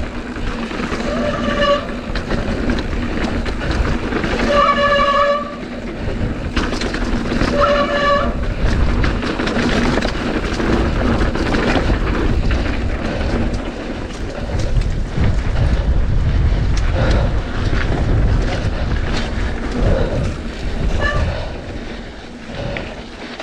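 Mountain bike ridden downhill on a dirt trail in strong wind, heard from a bike-mounted action camera. Heavy wind buffeting on the microphone and constant rattling and knocking from the tyres, chain and frame over rough ground, with three short high squeals in the first third.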